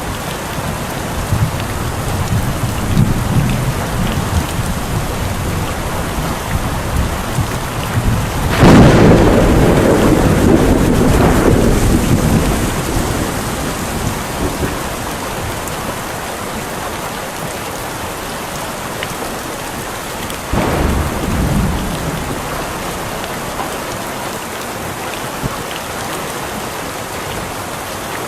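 Steady heavy rain falling, with a sudden loud clap of thunder about a third of the way in that rumbles on for several seconds and fades. A second, weaker thunderclap comes about two-thirds of the way in.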